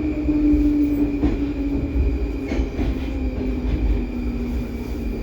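Baltiets metro train running on Line 5 and slowing for a station: the traction motor whine falls steadily in pitch over a heavy low rumble, with a few clicks from the wheels over rail joints.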